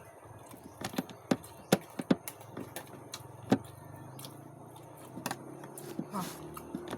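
Eating sounds: a metal utensil clicking sharply against a plate several times, loudest a second or two in and again about halfway, with softer clicks and mouth sounds near the end.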